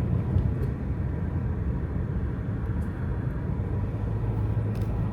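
A car driving at steady speed: a continuous low rumble of engine and road noise, with a few faint clicks.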